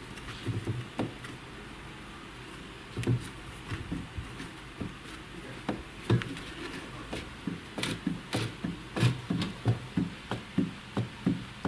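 Sharp metallic knocks from a worn VAZ 2102 camshaft being moved, clacking at irregular intervals that come faster in the second half, about two a second near the end. The knocking is the sign of worn axial play in the camshaft, which the mechanic found to be the cause of the engine's knock.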